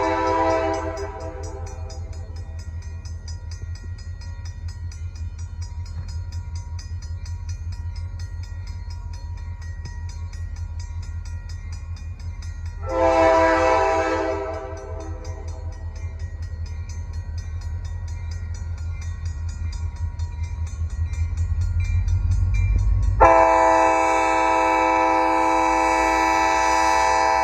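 Diesel freight locomotive's multi-chime air horn: a blast ending right at the start, a short blast about halfway through, and a long blast over the last few seconds. Under it, the steady low rumble of the diesel engines grows louder as the train approaches.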